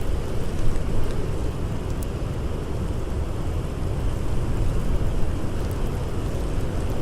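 Blizzard wind blowing steadily as a deep, rushing noise, with a few faint crackles from a campfire.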